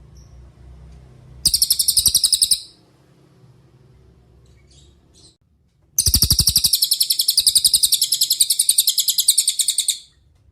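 Cililin songbird singing rapid trills of quick, evenly repeated high notes: a short trill of about a second near the start, then a longer one of about four seconds that cuts off near the end.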